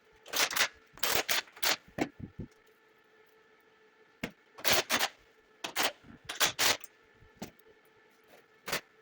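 Irregular sharp knocks and clatters, in quick clusters of two to four, over a faint steady hum.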